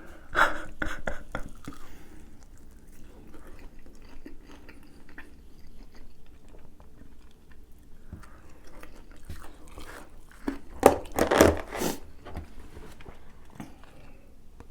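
A person chewing and biting into a crunchy fried hot chicken sandwich, with scattered small crunches and a louder stretch of noise about eleven seconds in.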